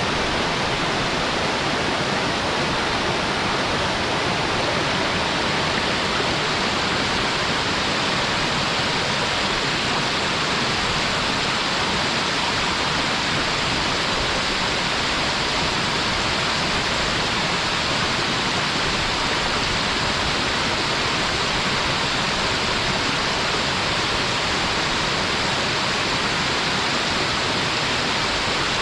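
A waterfall's water falling in a steady, unbroken rush that never changes in level.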